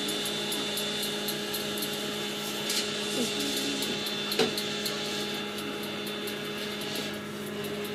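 Steady hum of a small electric motor, with a few short clicks over it.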